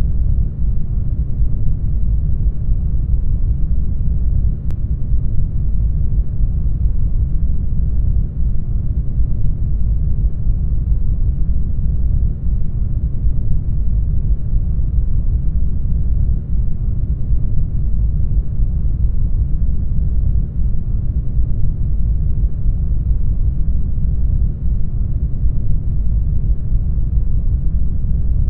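Brown noise: a steady, deep, even rushing sound weighted heavily toward the bass, with no change in level or character.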